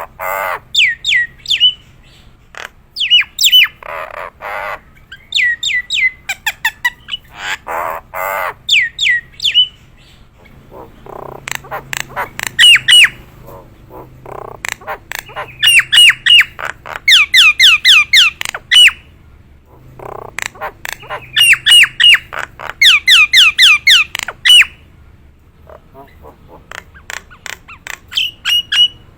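Nias hill myna calling: loud harsh squawks mixed with rapid runs of sharp whistled notes, each note falling in pitch, delivered in bursts of several seconds with short pauses between.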